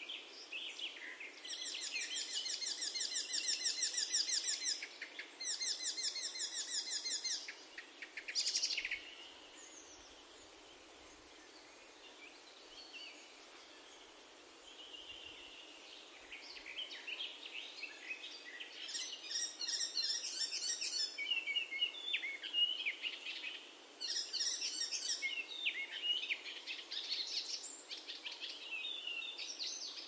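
Songbirds singing: two bursts of fast, high trills in the first several seconds and a short call, then a lull. From about halfway on come varied song phrases and more trills.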